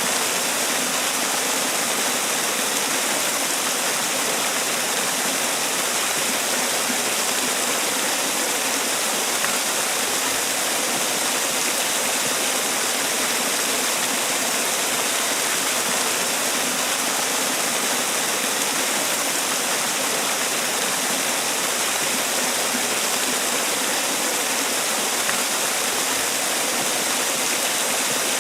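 Man-made waterfall: water falling and splashing in a steady, unbroken hiss.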